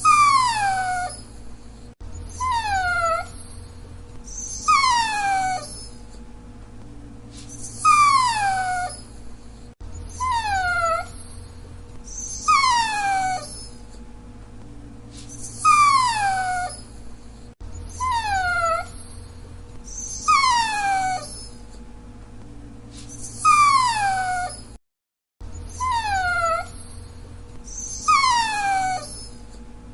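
Dachshund whining: a string of high whines, each falling in pitch and lasting about a second, coming every couple of seconds and sometimes in quick pairs. The sound cuts out briefly once, late on.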